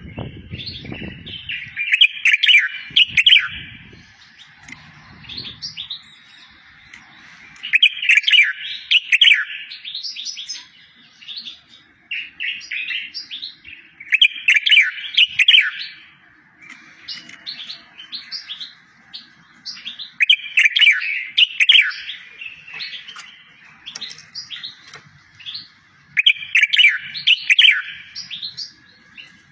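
A recorded songbird's tutor song for training goldfinches and canaries: a fast chattering phrase of about two seconds, repeated roughly every six seconds, with softer single chirps in between. A few faint low thumps sound in the first few seconds.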